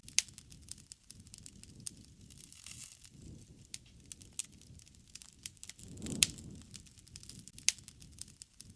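Wood fire crackling, with irregular sharp pops and snaps. A low, soft rush of flame swells about six seconds in, along with one of the loudest pops.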